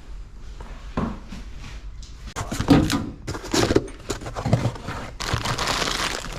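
A parts kit being unpacked from its box: scattered knocks and clatter as parts are handled, then from about five seconds in, plastic packaging crinkling.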